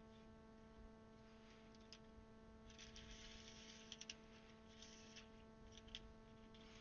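Near silence over a steady faint hum, with a few faint clicks and short rustles around the middle: plastic keycaps being handled and sorted.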